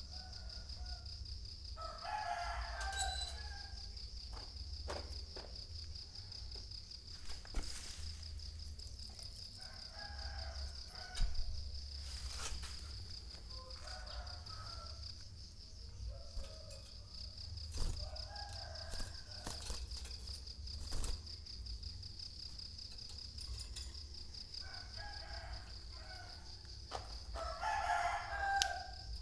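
Rooster crowing several times, each crow a second or two long, over a steady high pulsing insect trill. A few sharp clicks are heard along the way.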